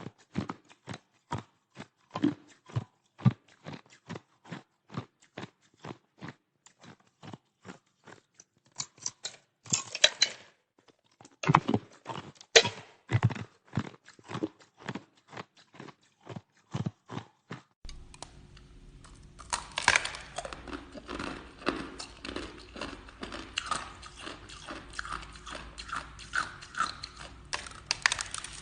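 Ice being crunched and chewed close to the microphone: sharp crunches about twice a second, with louder bites around ten and twelve seconds in. Past the middle, a different recording follows, with a low hum underneath and denser crunching.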